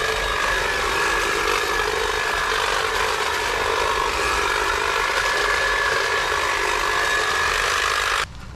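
Stihl battery-powered hedge trimmer running at a steady speed, its electric motor whining over the chatter of the cutting blades, then cutting off suddenly about eight seconds in.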